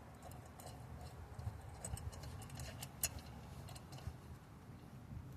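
Scattered light metallic clicks and taps from hand tools fastening the lawn mower's blade bolt, the sharpest about three seconds in, over a low handling rumble.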